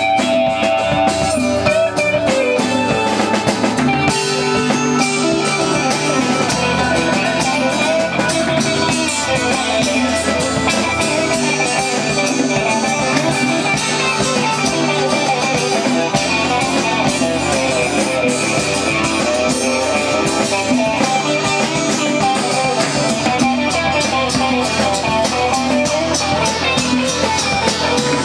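Live rock band jamming, with guitars playing over a drum beat.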